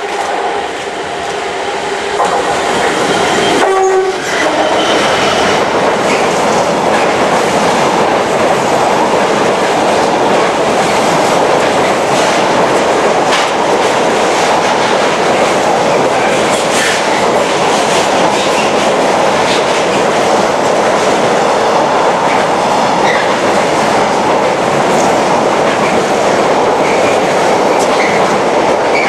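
Freight locomotive sounds its two-tone horn on approach, a higher note then a lower one about four seconds in. It is followed by the steady loud rush of a container train passing close by, with wheels clattering over the rail joints and wagons rattling.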